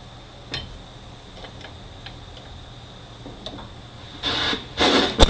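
Pneumatic air hammer fired in two short bursts near the end, trying to drive a stuck part off a manual-transmission shaft that will not come loose, with a sharp knock just after. Before that, only light clicks of metal parts being handled.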